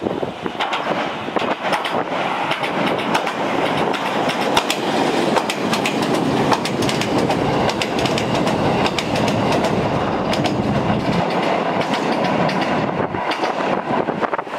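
Electric commuter train running past at close range across a steel railway bridge. There is a steady loud rush, with a fast run of clicks from the wheels clattering over the rails.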